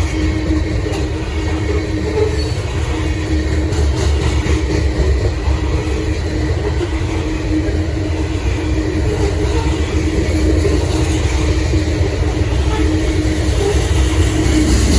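Freight train's cars rolling past close by, a steady loud rumble of wheels on rail without a break.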